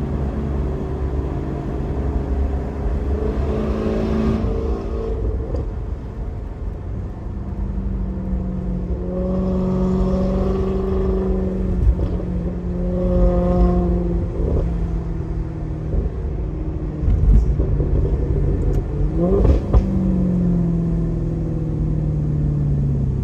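2008 Maserati GranTurismo's 4.2-litre V8 running through a Kreissieg aftermarket exhaust, its pitch holding steady for stretches and then shifting. Near the end the revs rise sharply, then ease off slowly.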